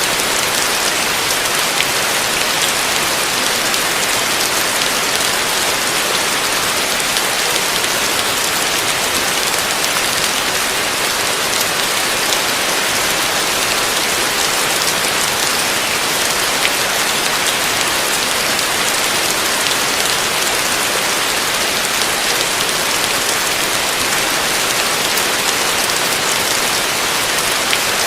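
Heavy rain falling steadily: a dense, even hiss of rain with fine drop patter, unchanging throughout.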